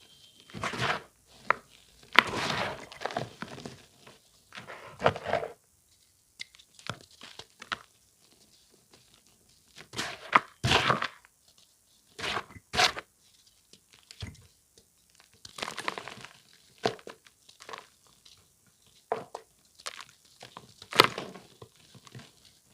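Reformed charcoal-powder chalk being crushed, crunching and crumbling in irregular bursts with short pauses between them.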